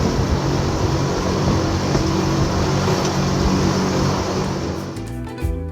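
Steady rushing running noise of a moving train, with a low hum under it. Music starts in about five seconds in as the noise fades.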